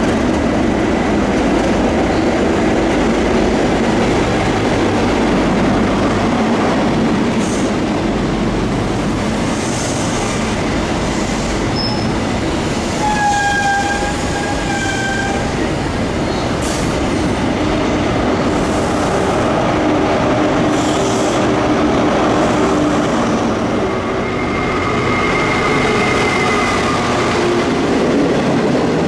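A train running past on the rails: a steady, loud rumble and rush of wheels, with a high tone held for about two seconds halfway through and fainter steady tones later on.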